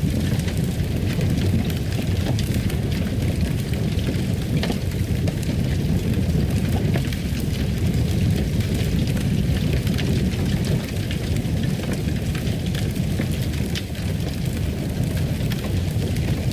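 Fireplace fire burning: a steady low rumble with frequent small crackles and pops scattered throughout.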